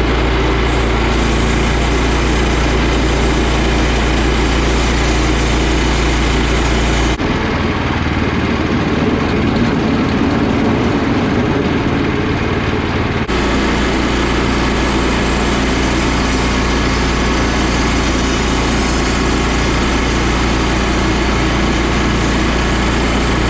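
Engine running steadily, with the sound changing abruptly about 7 seconds and again about 13 seconds in.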